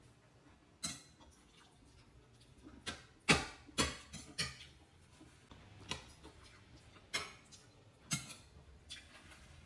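Irregular light clinks of an eating utensil against dishware, about nine sharp taps, the loudest about a third of the way in.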